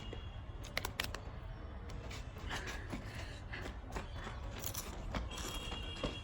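Scattered small clicks and crackles of food and eating utensils being handled, over a low steady hum, with a high steady electronic tone coming in about five seconds in.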